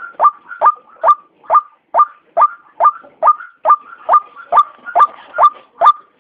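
White-breasted waterhen calling: a steady, unbroken run of short notes, each sweeping sharply up in pitch, about two to three a second.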